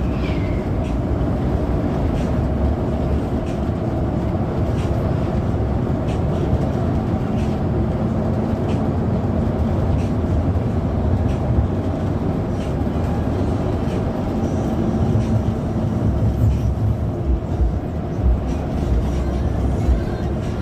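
Steady rumble of an intercity bus on the move, engine and road noise as heard inside the cabin.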